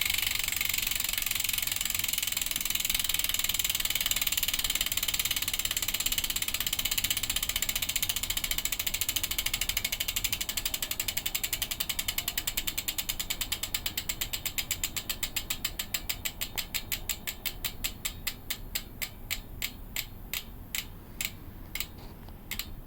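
Bontrager RaceLite rear hub's freehub pawls clicking as the freewheeling wheel coasts down: a fast buzz of clicks that slows steadily into separate clicks and stops near the end.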